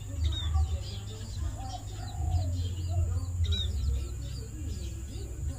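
A flock of Java sparrows chirping: many short, high chirps overlapping throughout. Lower, gliding calls from other birds sound underneath, over a steady low rumble.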